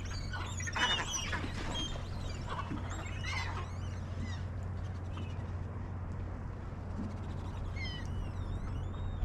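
Birds calling: a flurry of short, high calls in the first few seconds and a few more near the end, over a steady low hum.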